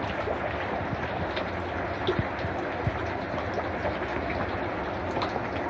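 Steady rain falling on a garden fish pond and the wet stones and plants around it, with single drops ticking now and then.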